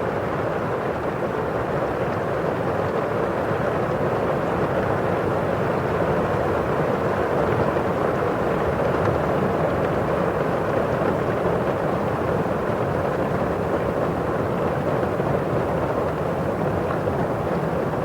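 Steady rain on a windowpane and outside: a dense, even rush with no single drops standing out and little hiss at the top.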